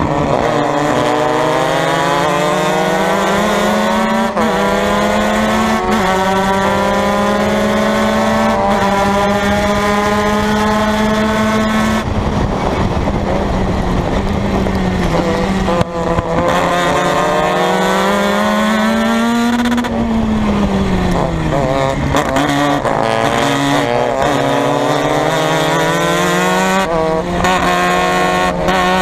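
Formula Mazda race car's Mazda rotary engine at full throttle, its pitch climbing through the gears again and again. It falls off sharply when the driver lifts or brakes: about twelve seconds in, briefly near sixteen seconds, and with a downward glide around twenty to twenty-two seconds before it climbs again.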